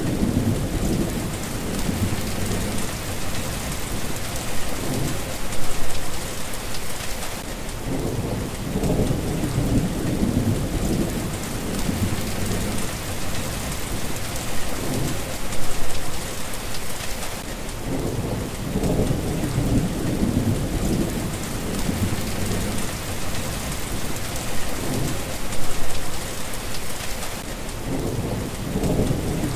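Steady rain with low rumbles of thunder rolling in and out every few seconds, the louder swells coming about every ten seconds.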